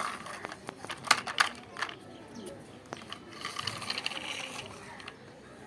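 Small plastic toy vehicles being handled, giving scattered sharp clicks and light scraping, with a short hissing rustle near the middle.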